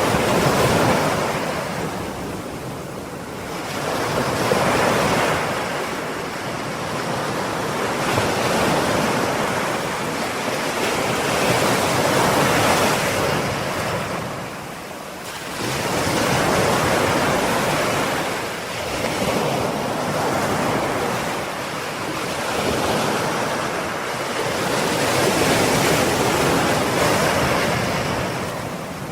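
Ocean waves breaking and washing on a shore, the surf swelling and ebbing in slow surges every few seconds, with some wind noise.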